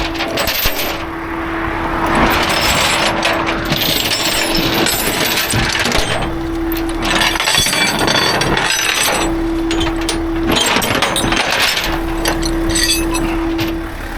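Metal clanking and rattling from a rollback tow truck loading a wrecked pickup, with a steady low tone that cuts in and out every second or so.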